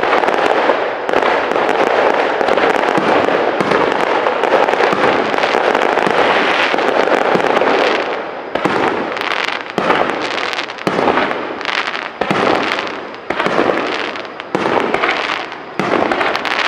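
Aerial fireworks bursting in a dense, continuous barrage of crackles and bangs. About halfway through the barrage thins out into separate sharp bangs, roughly one a second.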